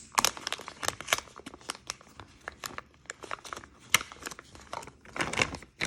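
Product packaging being torn and crinkled open by hand: a dense, irregular run of crackles and snaps.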